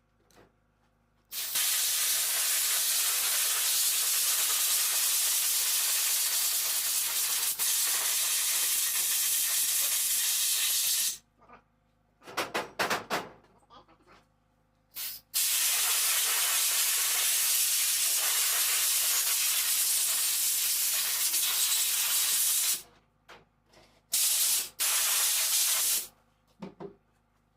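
Compressed-air blow gun hissing in two long blasts of about ten and seven seconds, with short bursts between and after, blowing alternator parts clean.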